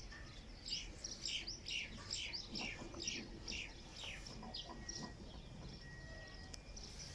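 Birds chirping: a quick run of short, falling chirps, about three to four a second, lasting some four seconds before thinning out.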